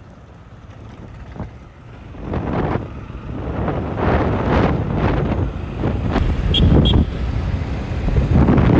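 Wind buffeting the microphone in irregular gusts over the low rumble of a moving vehicle, growing louder about two seconds in. Two short high beeps sound near the end.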